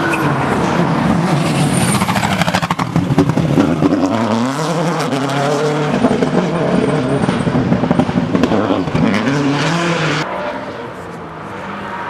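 Rally car engine passing at racing speed, revs rising and falling sharply through gear changes and lifts, with a burst of rapid crackles about two to four seconds in. The sound drops away suddenly about ten seconds in as the car moves off.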